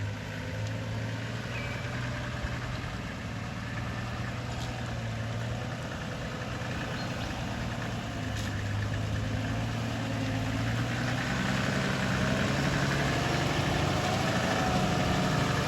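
A four-wheel-drive's engine running at low, steady revs, growing a little louder in the second half.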